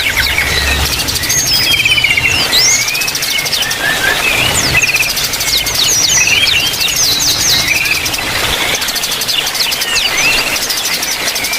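Several small aviary birds chirping and twittering, many quick calls, trills and short whistles overlapping throughout.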